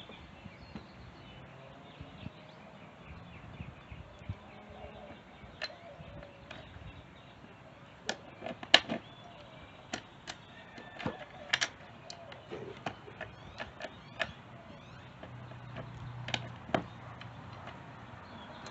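Irregular clicks, clinks and knocks of hand tools and small metal parts being handled while an engine is fitted to a mower deck. The sharpest click comes about nine seconds in.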